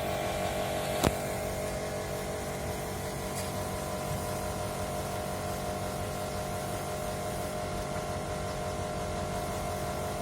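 A steady motor hum with no change in pitch, and one sharp click about a second in.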